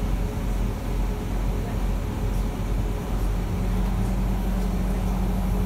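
Siemens C651 metro train standing at a platform with its doors open: steady hum of its on-board equipment, with a steady low tone joining about three and a half seconds in.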